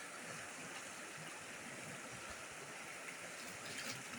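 Steady rush of falling water, an even hiss without distinct splashes.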